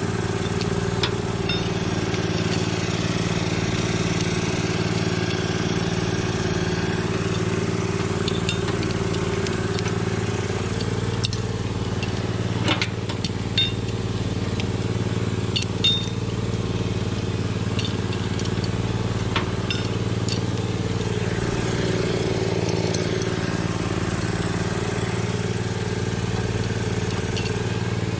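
An engine running steadily at an even speed, with scattered light metallic clinks.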